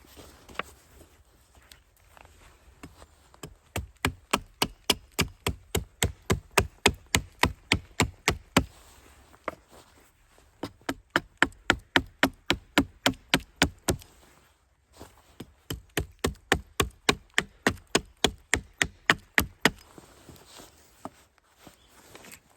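Tent stakes being hammered into the ground: three runs of rapid, sharp knocks at about four blows a second, with short pauses between the runs.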